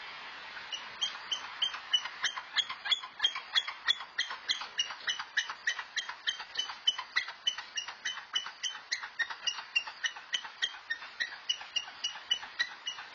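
A bird pecking rapidly at a mirror's glass, rapping about three to four times a second, starting about a second in.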